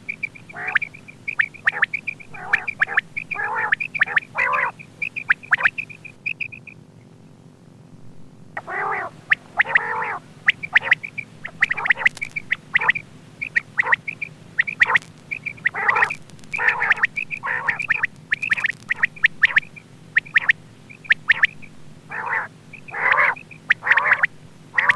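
Quail calling, as used to lure quail for hunting: short, sharp notes repeated in quick series, many overlapping, with a break of about two seconds early on. A faint steady hum runs underneath.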